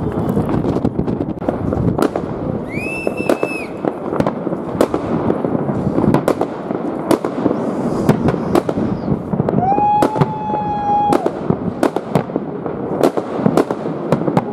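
New Year's fireworks going off all around: a continuous din of distant bursts and crackle, broken by many sharp nearer bangs. Two held whistling tones stand out, a high one about three seconds in and a lower one about ten seconds in.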